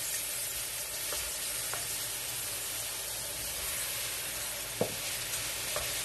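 Chicken pieces sizzling as they fry in oil in a hot pan: a steady hiss with a few short clicks and knocks, the clearest one a little before five seconds in.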